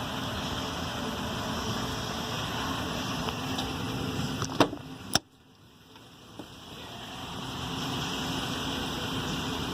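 A vehicle running steadily, with two sharp knocks about halfway through, after which the sound cuts off suddenly and builds back up over a few seconds.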